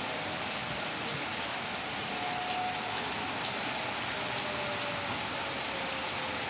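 Heavy rain falling steadily during a severe thunderstorm, an even hiss dotted with the ticks of individual drops striking surfaces. A faint tone slides slowly downward in the background.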